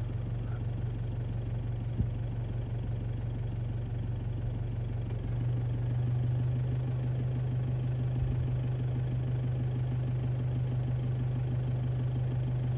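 Vehicle engine idling with a steady low hum, which grows a little louder about five and a half seconds in.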